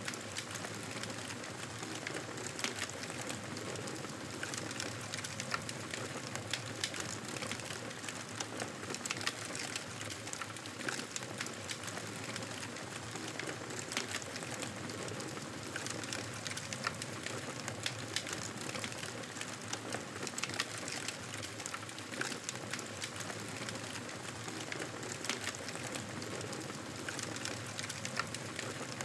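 Campfire burning: a steady hiss with frequent, irregular sharp crackles and pops from the burning wood.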